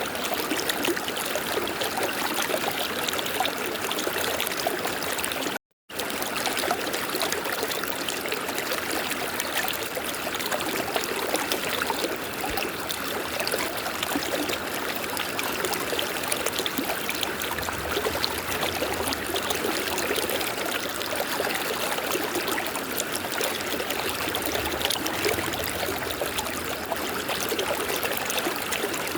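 Flowing river water, a steady rushing and trickling. It cuts out completely for a split second about six seconds in.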